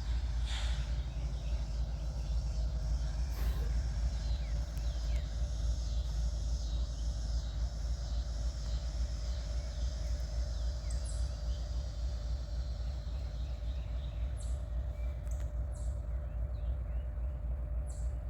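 Steady low rumble of a diesel switcher locomotive moving away down the line, with birds chirping now and then.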